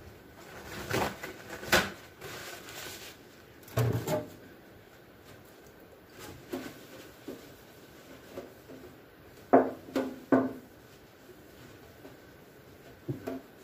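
Plastic fridge bins being handled and wiped out with a paper towel: scattered knocks and clatters, a stretch of rustling, and a few short squeaky sounds about ten seconds in.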